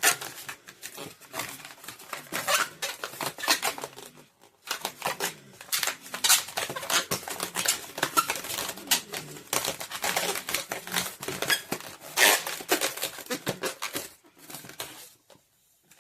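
Latex twisting balloons being handled and rubbed together: a dense, irregular run of rubbery creaks and crackles. There is a short pause about four seconds in, and the sound tails off near the end.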